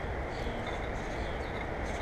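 Faint, scattered small-bird chirps over a steady low rumble of outdoor background noise.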